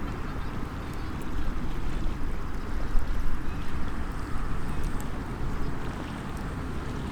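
Small wood campfire crackling with scattered faint pops, under a steady, fluctuating rumble of wind on the microphone.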